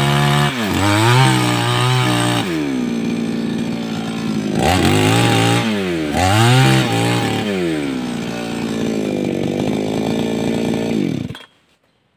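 A 588X two-stroke petrol chainsaw running, its revs dropping and rising again several times as the throttle is worked, then settling at a lower speed before the engine cuts off suddenly near the end.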